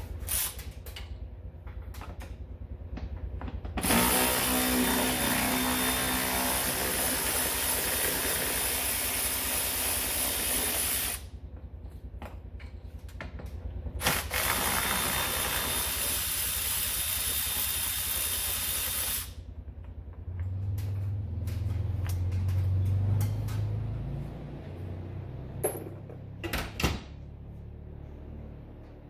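Cordless power tool running in two long bursts of about seven and five seconds, spinning out bolts. A few sharp clicks and knocks of tools and parts come near the end.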